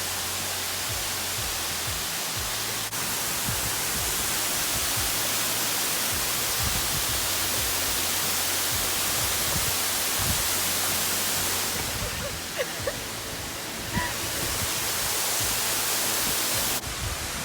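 Steady rush of falling water from a waterfall, with a few brief low thumps.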